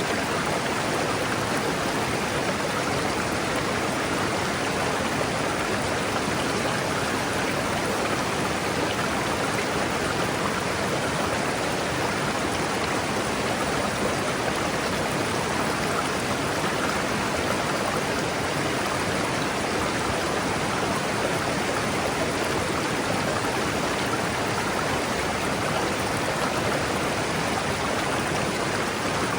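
A river rushing steadily over rocks: a continuous, even sound of flowing water.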